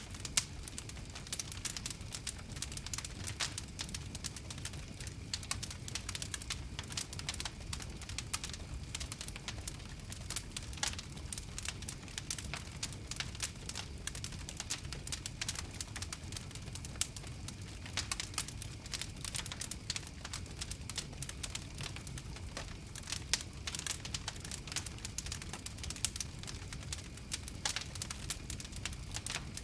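Campfire crackling: many small irregular pops and snaps over a low steady rumble.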